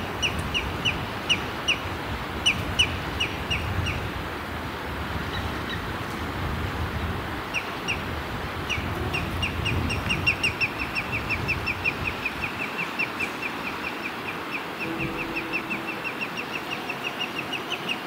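A bird calling in a series of short, sharp, high notes, about three a second at first; after a pause the notes come back as a run that speeds up toward the end. A steady rushing noise runs beneath.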